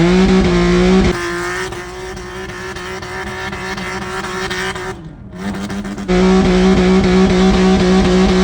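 Audi B8 S4's supercharged 3.0-litre V6 held at high, steady revs during a burnout. The engine sound drops in level for about five seconds after the first second, then comes back loud, and the revs fall off near the end.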